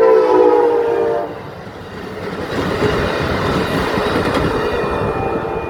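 Amtrak Capitol Corridor passenger train sounding its horn, a chord that ends about a second in. The train then passes close by, with loud rolling wheel noise and clickety-clack on the rails.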